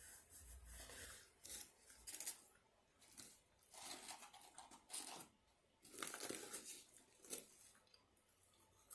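Faint rustling and crinkling of paper fast-food packaging being handled, in several short irregular bursts.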